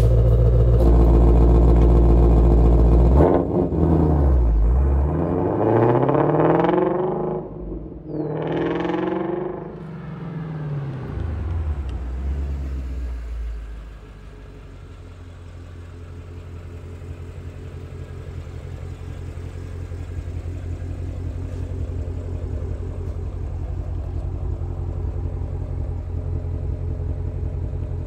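Ford Mustang Shelby GT350's 5.2-litre flat-plane-crank V8 running through its quad-tip exhaust. It runs loud and steady at first, is revved up and let fall twice, blipped once more, then settles about halfway through into a quieter steady idle.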